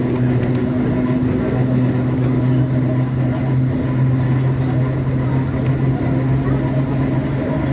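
Subway train running with a steady low electrical hum over a rumble.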